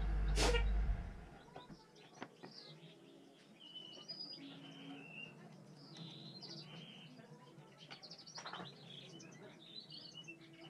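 Small birds chirping in the background, with a knock and a low rumble about half a second in as a pine board is handled on the workbench, and another sharp knock a little after eight seconds.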